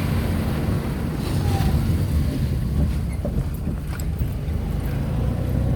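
Steady low rumble of a Tata Nano on the move, its engine and tyre noise heard from inside the cabin.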